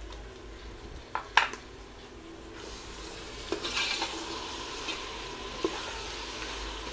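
Sliced onions and ginger-garlic paste sizzling in hot oil in an aluminium pressure cooker, stirred with a steel slotted spoon that scrapes and clinks against the pot. Two sharp knocks come a little over a second in, and the sizzle grows louder from about halfway as the stirring begins.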